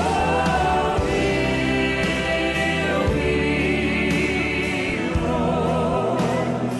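Choir and congregation singing a slow gospel worship chorus over band accompaniment, with long held notes.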